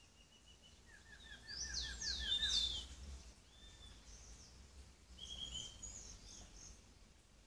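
Wild songbirds singing, several birds at once. About a second in comes a quick run of short falling notes, overlapped by loud sweeping whistles higher up around two seconds in, with more whistled phrases around five to six seconds.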